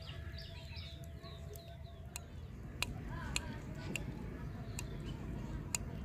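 A bird calling in a quick run of short falling notes during the first second, over a steady low outdoor rumble. A few sharp clicks follow later.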